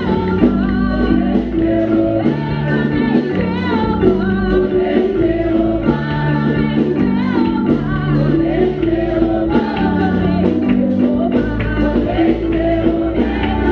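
Gospel worship music: voices singing over a band with steady, sustained bass notes.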